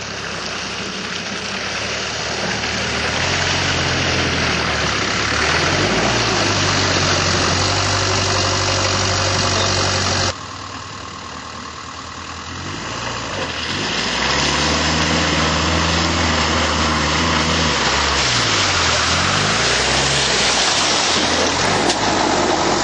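Series Land Rover engine working hard through deep mud, its revs held, then rising and falling several times. The sound drops suddenly about ten seconds in and builds up again.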